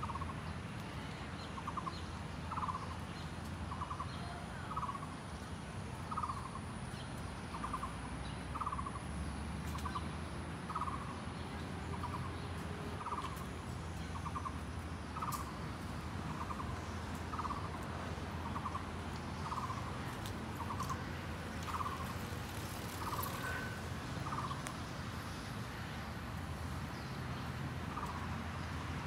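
A bird repeating a short two-note call at an even pace, about one pair every two seconds, over a steady low background rumble.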